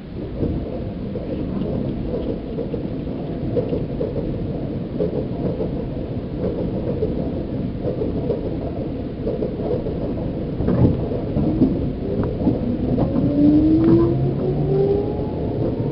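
Seibu New 2000 series electric train heard from inside motor car MoHa 2291 while running: a steady low rumble of wheels on rail. From about two-thirds of the way in, the traction motor whine glides steadily upward in pitch, with a few knocks over rail joints.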